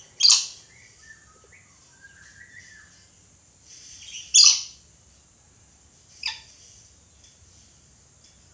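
Red lory calling: three loud, short screeches, one right at the start, one about four seconds in and a weaker one near six seconds, with softer chirps and gliding whistles in between.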